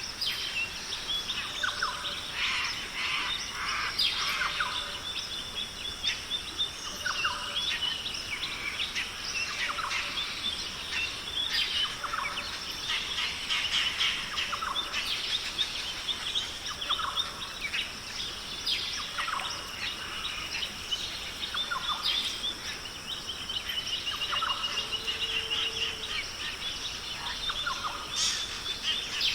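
Australian rainforest ambience: many birds calling at once with short chirps, whistles and trills, over a steady high-pitched background hiss.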